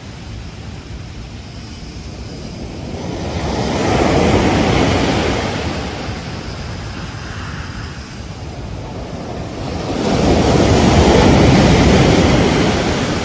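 Ocean waves breaking on a beach: surf rushing in, in two swells, one about a third of the way in and a louder one near the end, with quieter wash between.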